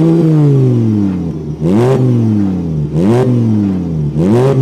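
Mk5 Volkswagen's 07K 2.5-litre five-cylinder engine revved through its freshly repaired exhaust, heard from outside: a rev dies away, then three quick throttle blips about a second and a half apart.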